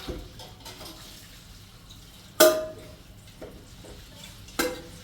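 Two sharp clanks of metal cookware being handled, each ringing briefly. The louder one comes about two and a half seconds in, the second near the end.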